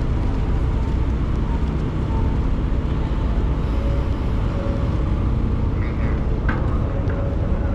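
Steady low rumble of a vehicle engine heard from inside a bus, with a couple of faint short clicks about six seconds in.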